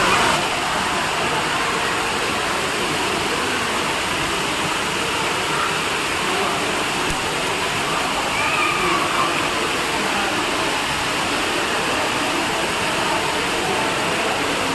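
Steady rushing noise like running water, with faint voices murmuring in the background.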